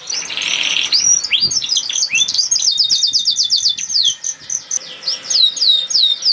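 Domestic canary singing. It starts with a rasping rolled phrase in the first second, then runs into a fast trill of short falling notes, about ten a second, and later into slower, longer downward-sweeping whistles.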